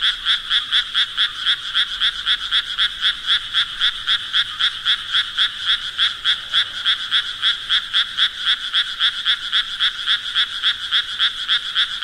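Frogs croaking in a steady, even rhythm of short calls, about four a second.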